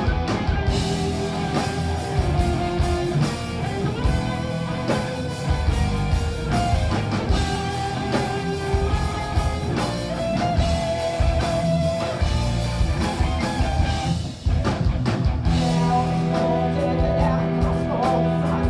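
Rock band playing an instrumental passage live, with electric guitars over bass and a drum kit. The sound drops out for a moment about three-quarters of the way through, then the band comes back in.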